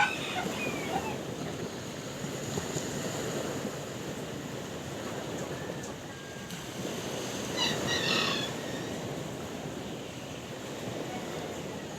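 Sea waves washing steadily, with a short high-pitched animal call right at the start and another, louder one about eight seconds in.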